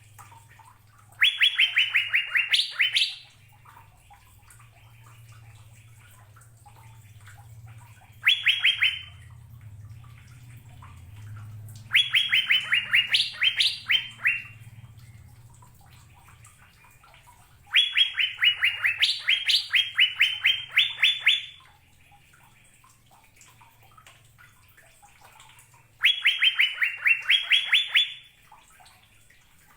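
Asian fairy-bluebird (cucak biru) singing: five phrases a few seconds apart, each a quick run of about eight to ten clear repeated notes, some ending with notes climbing higher.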